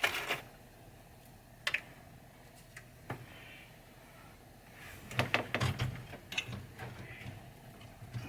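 Scattered sharp clicks and light metal clatter of small hardware being handled, such as washers and screws being fitted under a pinball head mechanism to shim it level: a couple of single clicks, then a quick cluster of them about five seconds in.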